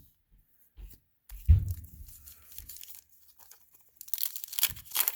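A low thump about a second and a half in, then from about four seconds the crackling rustle of a wax-paper trading-card pack wrapper being torn open.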